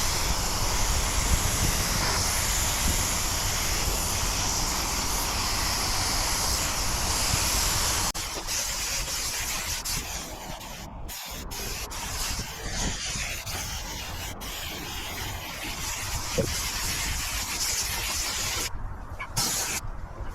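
Compressed-air paint spray gun hissing as paint is sprayed: a steady hiss for the first eight seconds or so, then weaker, with a few brief breaks.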